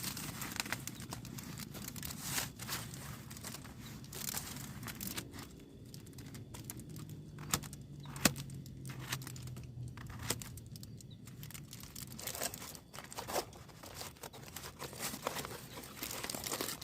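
Plastic food packaging being handled, crinkling and tearing in irregular bursts with a few sharp clicks.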